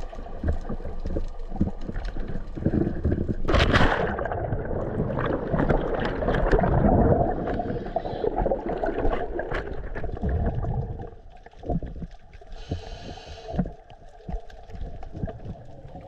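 Water splashing and gurgling around a scuba diver entering the sea: a sudden splash about three and a half seconds in, then several seconds of churning bubbles. This gives way to quieter bubbling and scattered clicks.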